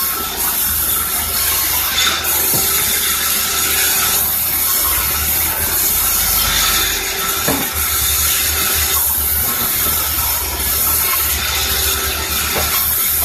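Sawmill saw running and cutting through timber: a steady loud hiss over a constant machine hum, with a pulsing low rumble joining about halfway through.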